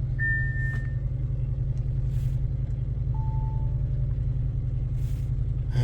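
Audi RS7's 4.0-litre twin-turbo V8 idling steadily with a low rumble, just started on fresh oil. A short high beep sounds near the start and a lower beep about three seconds in.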